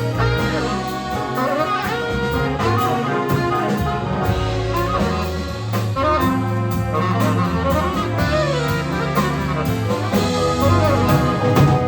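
A big band playing jazz live: saxophones and brass over a moving bass line and drum kit cymbals.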